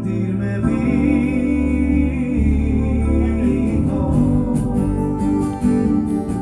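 Band music with no words sung: an instrumental passage with guitar over bass and a steady accompaniment.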